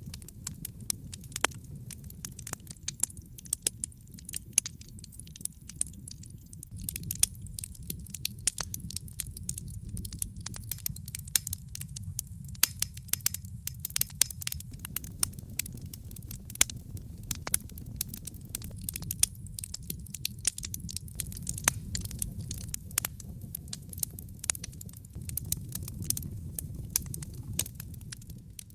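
Wood fire crackling in a fireplace: a steady low rumble of flames with many sharp, irregular pops and crackles.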